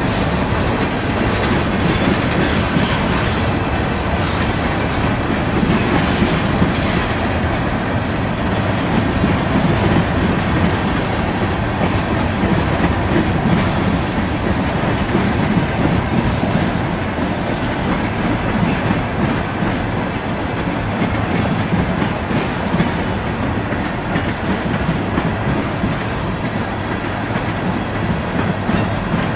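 Freight train of tank cars rolling past close by: a steady, loud rumble of steel wheels on rail, with the clickety-clack of wheels over rail joints.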